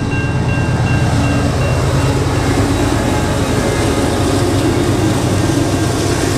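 Several diesel locomotives heading a loaded iron ore train pass close by with a loud, steady engine drone and rumble. A pulsing high tone sounds over it for the first couple of seconds, then fades.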